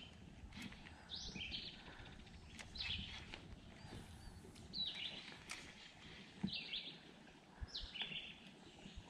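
A songbird singing the same short, high phrase over and over, about once every second and a half, faint against quiet outdoor background, with a few faint ticks.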